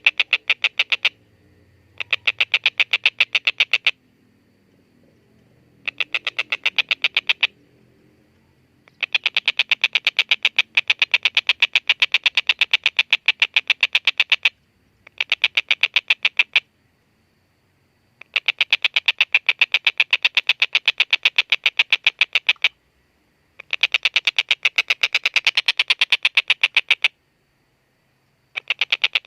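Collared kingfisher (tengkek buto) giving its cackling 'ngekek' call: bout after bout of rapid, harsh, evenly repeated 'kek' notes, each bout lasting one to five seconds with short pauses between.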